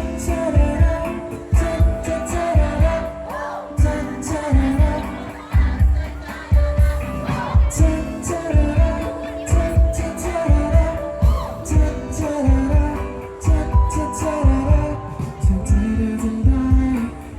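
Live pop band playing a song's instrumental section: a steady kick-drum beat about twice a second under a sustained lead melody line.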